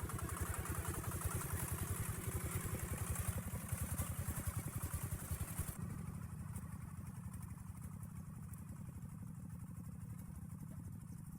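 Engine of a log-laden truck running steadily with a rapid, even firing beat. About halfway through the higher hiss cuts out suddenly and the engine sounds a little quieter.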